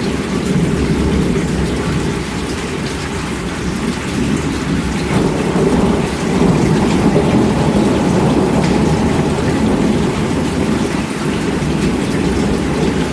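Steady heavy rain with rolling thunder, the low rumble swelling about five seconds in and holding for several seconds.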